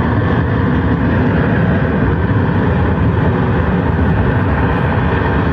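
Ruptured gas pipeline burning with a steady, loud roar.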